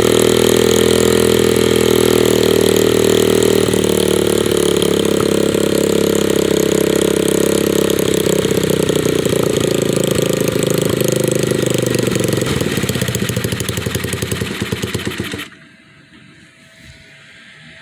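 125cc Baja dirt bike's single-cylinder engine running steadily on its new carburetor and air filter. Near the end the separate firing pulses slow down and the engine cuts off suddenly.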